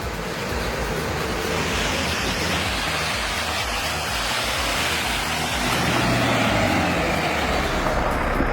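A heavy machine's engine running, with a steady broad rushing noise over it.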